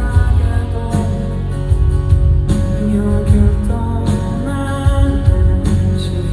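Live band music with guitar, sustained chords and a steady low beat.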